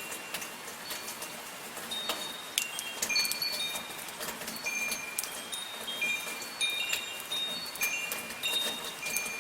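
Metal wind chimes ringing, several high tones struck at irregular moments and overlapping, over a steady hiss of light rain falling, with sharp drip clicks throughout.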